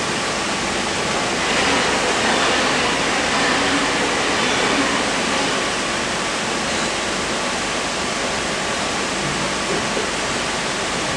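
Cabin running noise of a Sydney Trains K-set double-deck electric multiple unit in motion: a steady rush and rumble that swells slightly a couple of seconds in, then settles.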